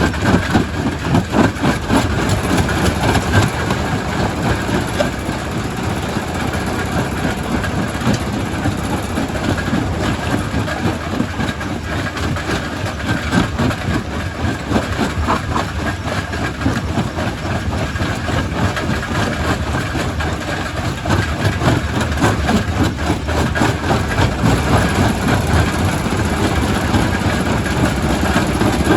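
Quarry primary rock crusher working: a loud, steady machine rumble with a dense, constant clatter of rock knocking and breaking inside it.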